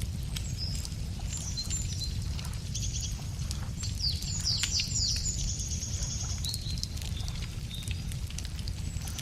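Wood campfire crackling with scattered sharp snaps over a steady low rumble, while birds sing: short high phrases, then a quick run of falling notes and a trill in the middle.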